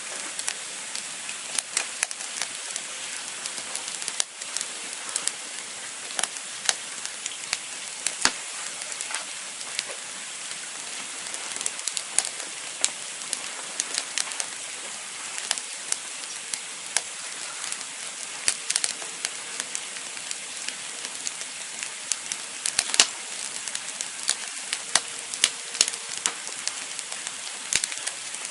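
Campfire burning: a steady hiss with frequent sharp, irregular crackles and pops of the wood.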